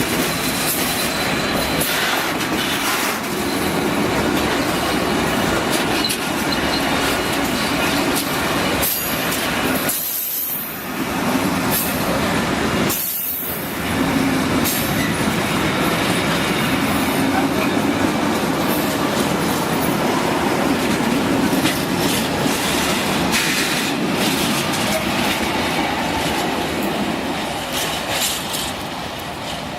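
Train running on the rails at the station, a dense steady rumble of wheels and cars with some wheel squeal, briefly dipping twice about a third of the way through.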